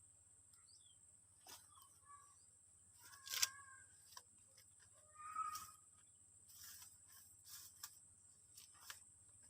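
Faint scattered clicks and rustles of handling, with two short chirping sounds about three and five seconds in, over a steady high-pitched insect drone.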